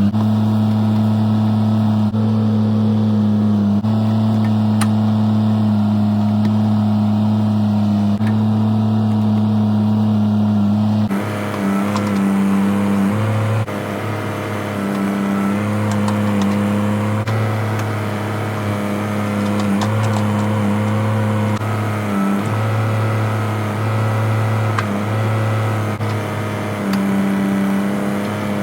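Bobcat E32 mini excavator's diesel engine running steadily at working throttle. About eleven seconds in, the sound turns rougher, and the engine note dips and recovers repeatedly as the machine works.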